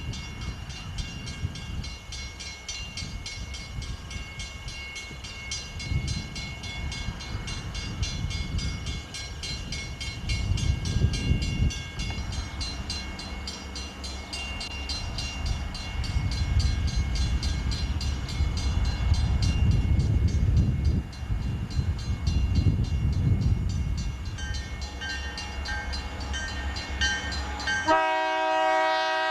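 Canadian Pacific freight train rolling slowly over a diamond crossing: a steady low rumble with rapid, even wheel clicks that swells and eases several times. About a second before the end, a train horn sounds a multi-note chord.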